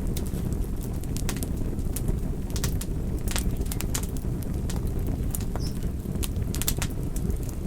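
Wood campfire burning: a steady low rumble with irregular sharp crackles and pops, several a second, from the burning wood.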